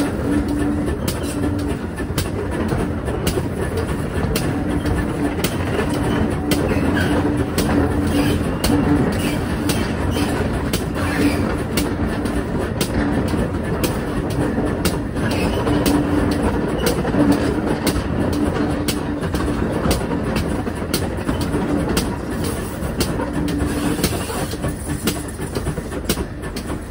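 Steam-hauled train running along the line: a steady rumble with the clickety-clack of wheels over rail joints.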